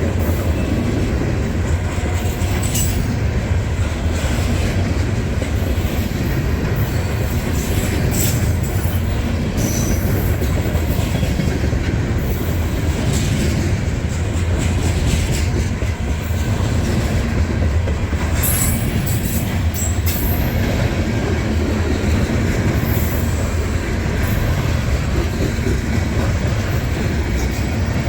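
Freight train of covered grain hopper cars rolling past close by: a steady heavy rumble of steel wheels on rail, with brief wheel squeals now and then.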